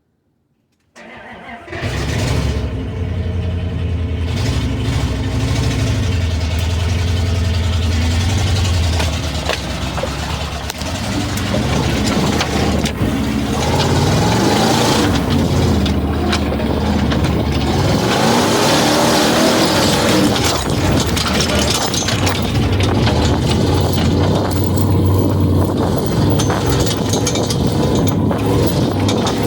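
Truck engine running loud under load as the truck drives across a field, its pitch rising and falling as it is revved. The sound cuts in suddenly about a second in.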